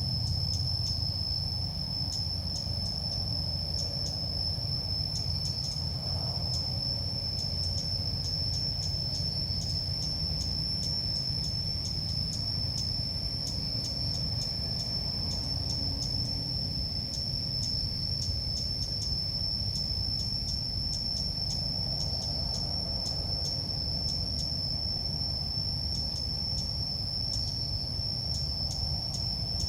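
Insects trilling with one steady, high-pitched tone, over a constant low rumble.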